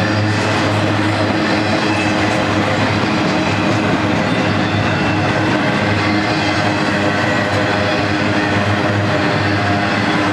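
Loaded double-stack intermodal well cars rolling past: the steady, loud rolling noise of steel wheels on the rails, with a low hum underneath.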